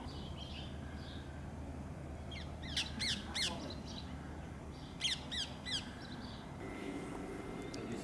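A bird calling: two quick runs of three short falling calls, about two seconds apart, with fainter chirps before them.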